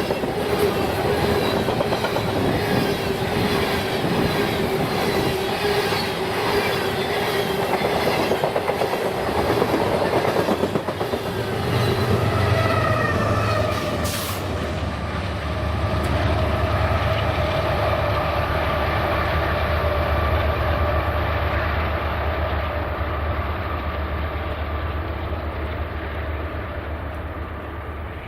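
Freight train rolling past, its wheels clattering over the rail joints with a steady wheel squeal. About halfway through, the clatter gives way to a lower, steady rumble with a faint whine that slowly fades.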